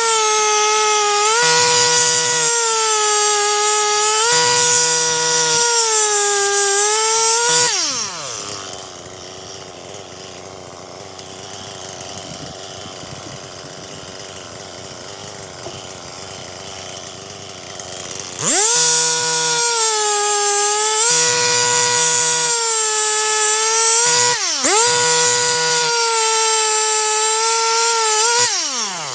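Stihl MS 261 C-M two-stroke chainsaw cutting through pine logs at full throttle, its pitch dipping as the chain bites and recovering. About eight seconds in it drops to idle for roughly ten seconds, then revs up for two more cuts, each ending with the engine winding down.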